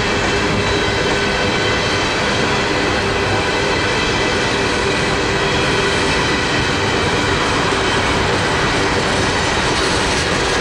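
Norfolk Southern coal hopper cars rolling past at speed: a steady, loud rumble of steel wheels on the rails, with faint steady ringing tones above it.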